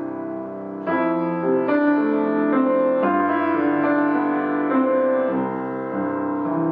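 Solo piano playing a slow, tender piece, with chords struck about once a second and left to ring, the first fresh chord about a second in.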